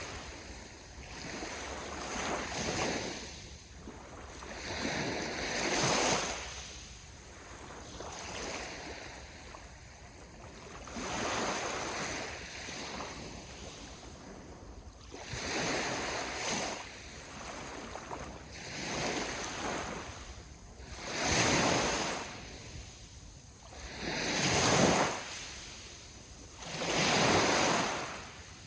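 Ocean waves breaking on the shore, each one rising into a surge of rushing surf and falling away, every two to three seconds, with the strongest waves near the end. A little wind runs underneath.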